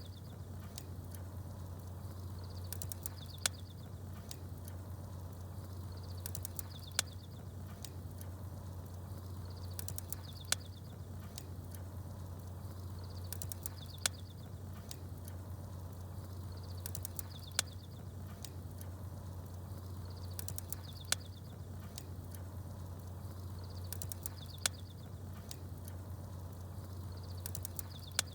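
Small birds chirping over a campfire: a short high chirp and a sharp crackle-like click come back at even intervals, about every three and a half seconds, over a steady low hum.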